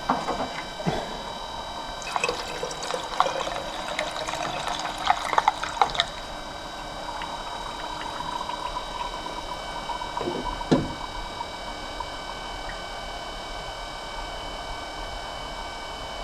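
Water being poured into a small-block V8's cooling system, gurgling and splashing with a pitch that rises as it fills, over a steady whine from the electric water pump priming the system. A single knock comes about two-thirds of the way through.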